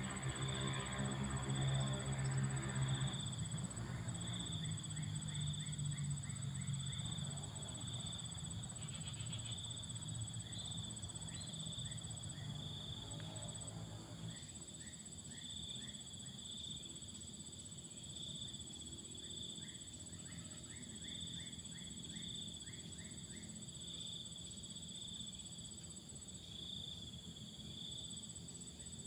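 Insects chirping in regular pulses over a steady high-pitched buzz, with a low hum in the first half that fades out about halfway through.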